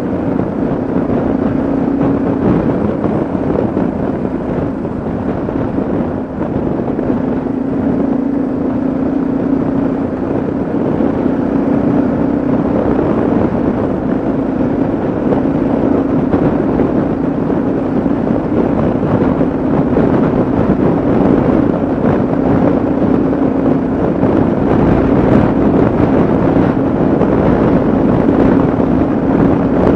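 Yamaha XT660Z Ténéré's single-cylinder engine running at a steady cruise, its pitch shifting slightly a few times, with wind rushing over the microphone.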